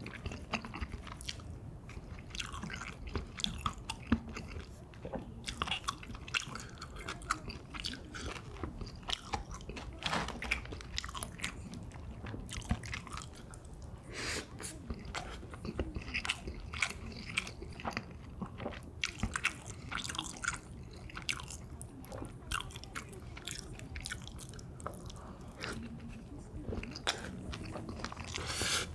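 Close-up mouth sounds of a person chewing spicy stir-fried pork cartilage (odolppyeo), with frequent irregular crunches as the cartilage is bitten and wet chewing in between.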